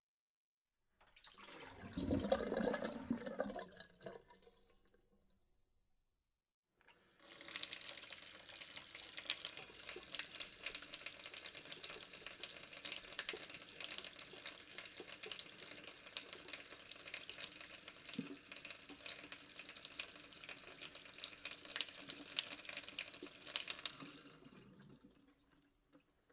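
A short, louder burst of water sound lasts about three seconds. After a brief pause, tap water runs steadily into a sink and fades out near the end.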